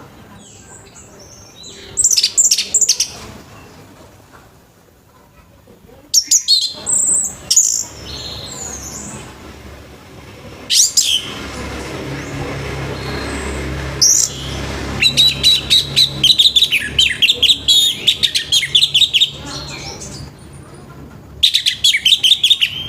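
Orange-headed thrush singing in loud bursts of high, quickly warbled phrases, with a long rapid run of repeated notes in the second half. A faint low hum sits underneath during the middle stretch.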